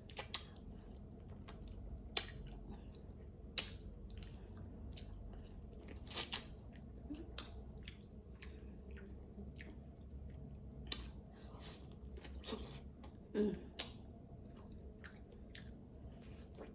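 A person eating crab: chewing and biting, with scattered sharp cracks and clicks from crab shell being broken open. The loudest crack comes a little after the middle.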